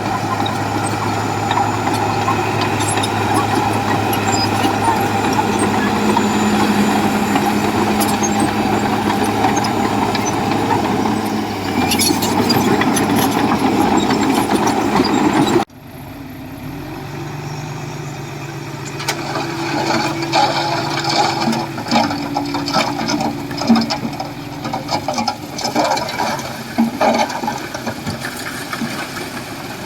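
Diesel engines of earthmoving machinery. A steady heavy engine drone runs for about half the time, then cuts off suddenly. A quieter engine follows whose pitch steps up and down, with frequent clanks and rattles.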